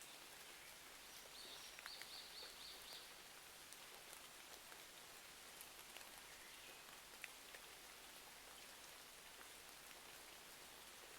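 Faint ambience of steady rain hiss with scattered sharp crackles from a wood fire in a fireplace. A short run of about five high chirps comes between one and three seconds in.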